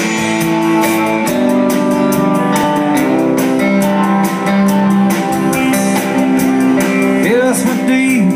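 A country band playing an instrumental intro: guitars holding chords over a steady drum beat, with a few bent, sliding guitar notes near the end.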